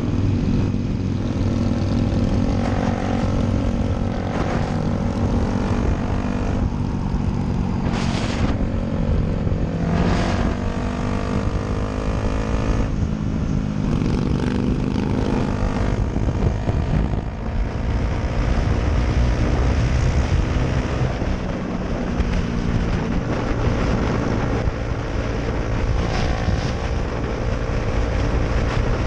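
Motorcycle engine running while riding, its pitch rising and falling repeatedly with throttle and gear changes.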